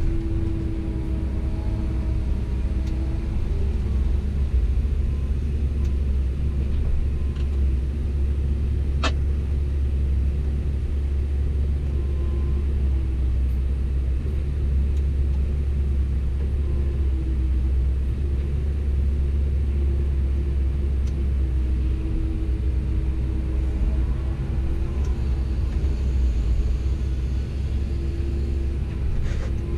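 Komatsu PC170LC-10 excavator's diesel engine running steadily as the machine works, a deep rumble with a held tone that shifts a little in pitch. One sharp click comes about nine seconds in.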